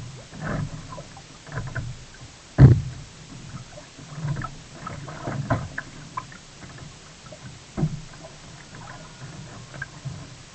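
Sea kayak on the water: irregular paddle splashes and water slapping, with occasional sharp knocks, the loudest about two and a half seconds in and another near eight seconds.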